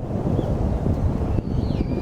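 Wind buffeting the microphone as a loud, steady low rumble, with a few faint chirps of Eurasian tree sparrows over it, a short one about half a second in and several near the end.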